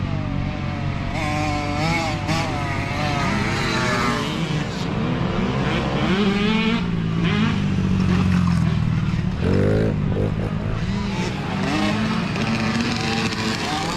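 Several mini dirt bike engines running and revving, their pitch rising and falling as riders roll on and off the throttle. One sharp rev about nine and a half seconds in.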